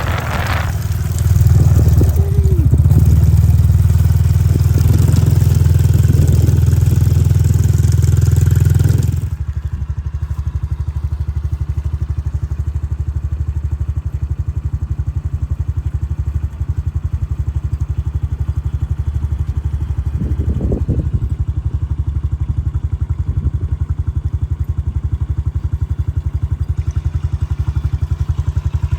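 Motorcycle engine running loud for the first nine seconds or so, then dropping suddenly to a quieter, steady running.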